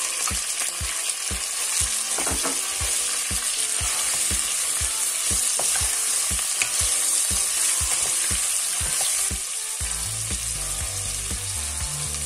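Pork cubes and freshly added sliced onion sizzling steadily in hot olive oil in a nonstick pan, stirred with a wooden spoon. The sizzle eases slightly about ten seconds in.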